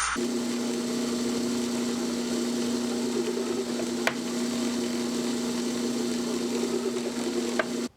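Electric power tool motor running steadily at a constant pitch, with two sharp ticks, one midway and one near the end, before it cuts off suddenly.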